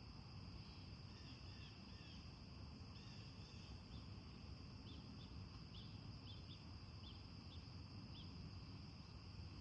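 Faint nature ambience: a steady high-pitched insect drone with small, scattered bird chirps through most of it.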